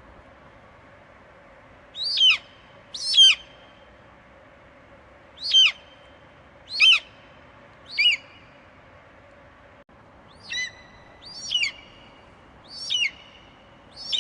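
Eagle screeching: about nine short, piercing calls, each sliding sharply down in pitch, coming singly and in quick pairs every second or two.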